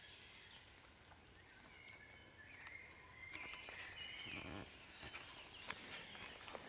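Faint steady rain falling, with a few faint, short, high bird calls in the middle.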